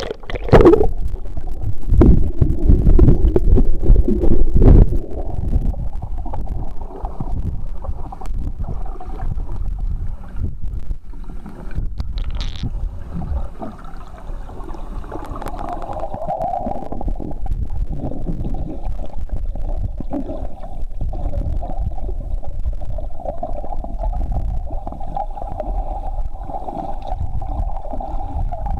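Sound heard through a camera underwater: a muffled low rumble and gurgling of water, with loud splashes and knocks during the first five seconds. From about halfway on, a steady hum runs under the rumble.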